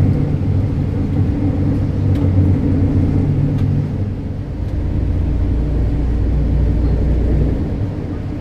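Ferry's engines running, a steady low drone with a changing low pitch that eases off near the end.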